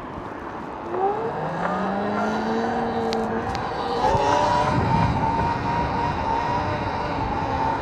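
E-bike's electric motor whining, rising in pitch as it speeds up from about a second in, then holding a steady whine over rushing noise.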